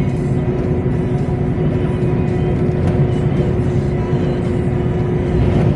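Steady drone of a loaded truck's engine and tyres at highway speed, heard inside the cab, with music playing quietly on the stereo.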